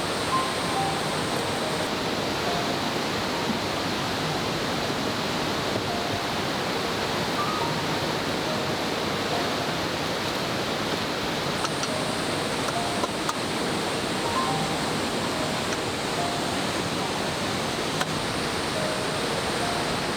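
Steady rushing babble of a mountain river, with background music of short single notes laid over it.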